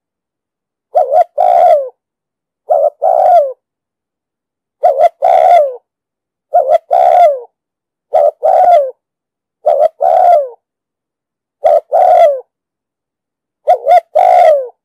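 Spotted dove cooing: eight phrases about two seconds apart, each a short note followed by a longer note that falls away at its end.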